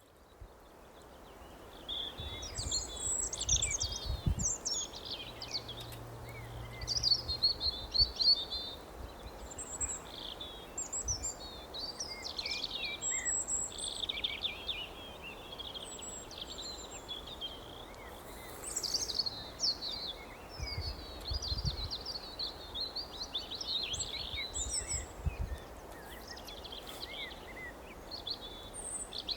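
Many small birds chirping and singing over one another, a dense, busy chorus that starts about two seconds in, over a steady background hiss.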